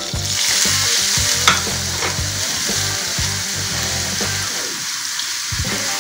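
Shredded raw potato sizzling in hot vegetable oil in a frying pan, the hiss jumping up as the shreds go in and then holding steady. A sharp tap sounds about one and a half seconds in.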